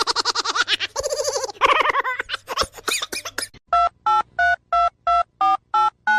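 A wavering, pitched call for about three and a half seconds, then phone keypad tones: a quick run of short two-note dialing beeps, about three a second.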